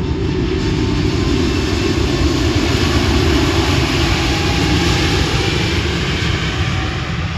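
Jet airliner engines at takeoff power, most likely the Airbus A320neo on its takeoff run: a loud, steady jet noise that swells to a peak a few seconds in and then eases off.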